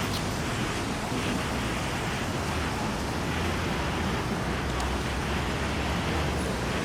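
Steady hiss of heavy rain on a city street, with the low rumble of passing traffic underneath.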